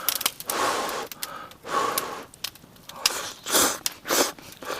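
A person eating hot hotpot, with about five short huffing breaths to cool the food in his mouth, mixed with small clicks.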